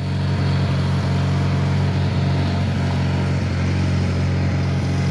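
John Deere 420 tractor engine running steadily under throttle, its hum holding an even pitch throughout.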